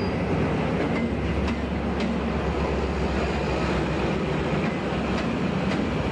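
Diesel-electric locomotive and passenger coaches rolling slowly past: a steady low engine drone and rumble of the train, with a few sharp clicks of wheels going over rail joints.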